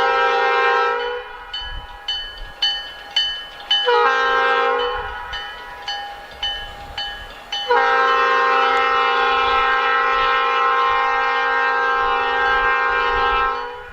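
Air horn of an EMD SD40-2 diesel locomotive sounding for a grade crossing: the end of a long blast, a short blast, then a long blast, several tones at once. In the gaps a railroad crossing bell rings about twice a second.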